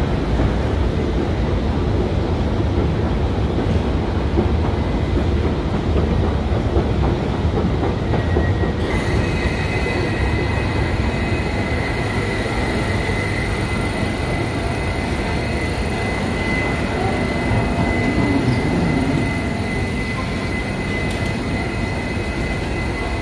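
Regional electric train at the platform: a steady low rumble, joined about nine seconds in by a steady high-pitched whine that lasts to the end.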